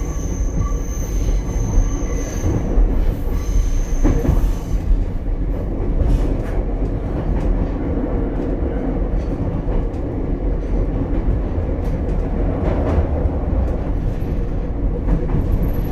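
Ichibata Electric Railway 7000-series railcar running, heard from inside the car: a steady rumble of wheels on rail, with a high wheel squeal in the first few seconds and a few scattered knocks from the track later.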